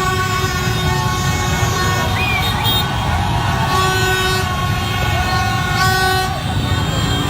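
Several horns tooting in long held notes, overlapping and stopping and starting, over a steady low din of crowd and traffic.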